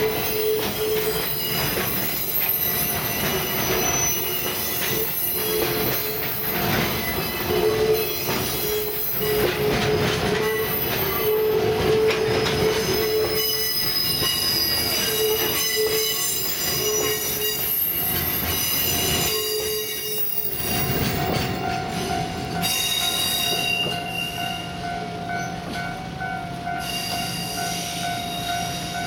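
Freight wagons being shunted by the DD352 diesel switcher, their wheels squealing on the rails in on-and-off bursts over a rough rolling noise. About twenty seconds in the squeal stops and a steady, rapidly pulsing tone takes over.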